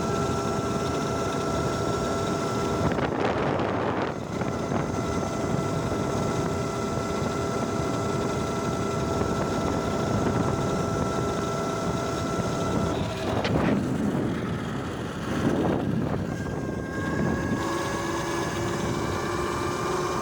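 Electric bike's motor whining steadily while riding, with wind buffeting the microphone; the whine climbs in pitch near the end as the bike speeds up.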